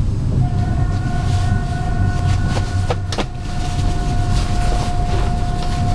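An Intercity train rolling slowly into a station, heard from inside the carriage: a steady low rumble. A steady whine with overtones comes in about half a second in, and a few sharp clicks of the wheels over rail joints or points fall near the middle.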